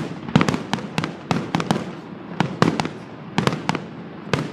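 Fireworks going off: a fast, irregular string of sharp bangs, several a second, which stops shortly before the end.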